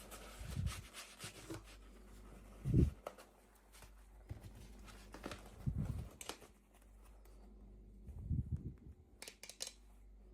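Packaging being handled during an unboxing: rustling and small clicks, with four dull thumps spread through and a quick run of sharp clicks near the end.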